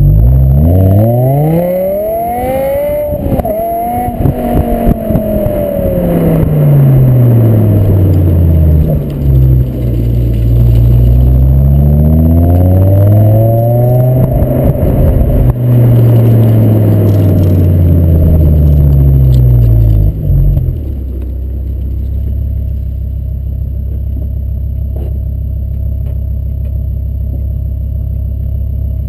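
BMW M6 engine through its stock exhaust, revved up and let back down twice in slow sweeps, then settling to a steady idle after about twenty seconds.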